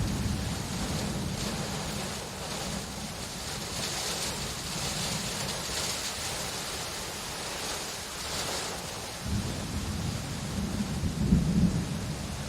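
Rain falling steadily with low rolling thunder; the rumble eases off in the middle and builds back louder near the end.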